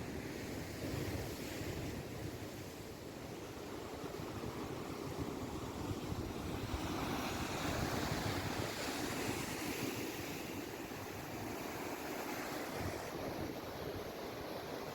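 Sea surf: waves washing in as a steady rush that swells about seven seconds in, with wind buffeting the microphone.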